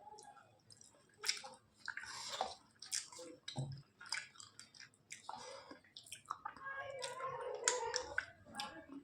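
Close-miked chewing and wet mouth sounds of a person eating rice with chicken curry: irregular smacks, squelches and clicks throughout.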